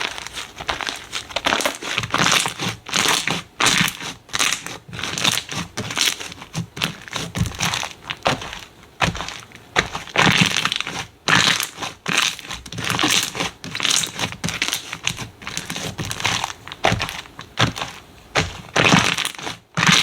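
Hands squishing, pressing and stretching slime, making dense, irregular crackling and crinkling sounds.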